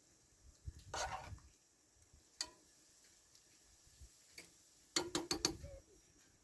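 Scattered light clicks and knocks: a short rustle about a second in, a single click, then a quick run of four clicks near the end.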